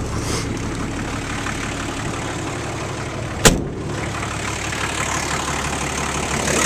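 Nissan turbo diesel engine of a 1980 International Harvester Scout idling steadily after a warm start, with one sharp clack about three and a half seconds in.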